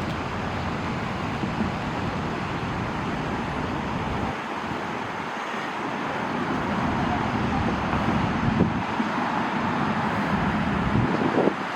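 A car driving: steady road and engine noise, with the low rumble easing about four seconds in and two short louder knocks near the end.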